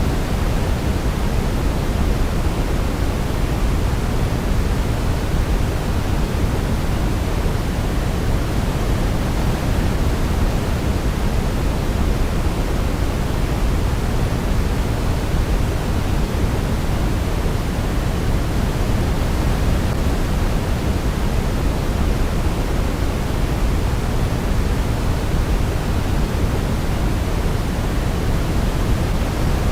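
Steady synthetic sleep noise, an even, unchanging rush weighted toward the low end rather than a bright hiss. No melody stands out above it.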